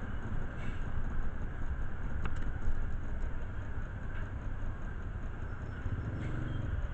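A motor vehicle engine running: a steady low rumble with a few faint clicks.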